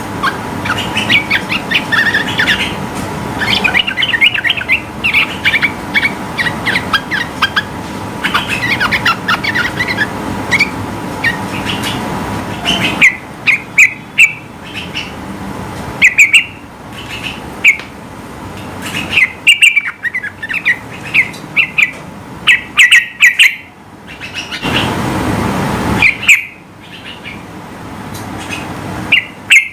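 Yellow-vented bulbul (trucukan) singing in runs of quick, bubbly chirps, with sudden changes in background noise where separate recordings are joined.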